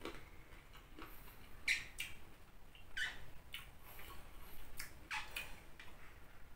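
Close-up chewing of raw vegetables: a scattering of short, crisp crunches and mouth clicks spread out, roughly one a second.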